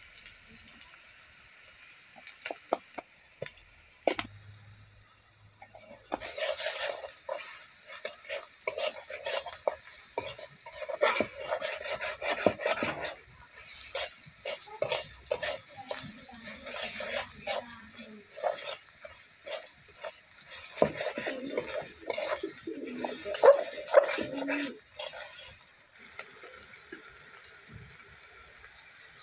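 Green chillies, garlic and onion sizzling in oil in a blackened karai, with a metal spatula scraping and clicking against the pan as they are stirred. The sizzle and stirring swell about six seconds in and drop back a few seconds before the end.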